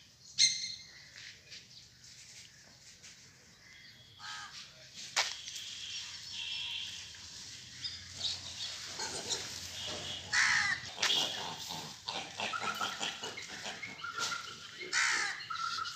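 Birds calling, several of them harsh caws like crows', scattered and faint at first and busier and louder in the second half.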